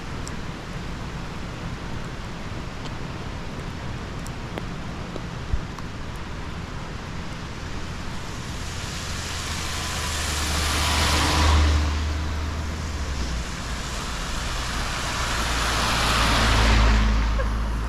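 Two road vehicles driving past one after the other, each swelling up over a few seconds and fading away, the first peaking past the middle and the second near the end, over a steady background hiss.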